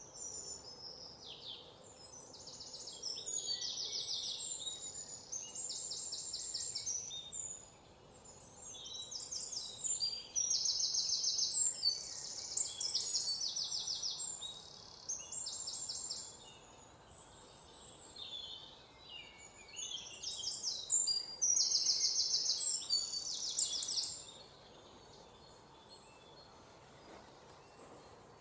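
Songbirds singing in bouts of high, fast trills and short chirps over a faint steady outdoor background; the singing stops about 24 seconds in.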